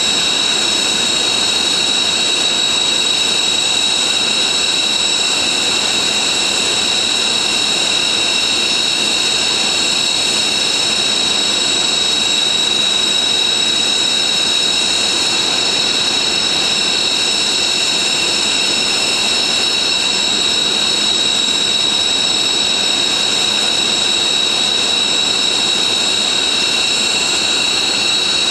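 Military jet engines running on the ground: a steady, high-pitched whine over a loud rushing noise.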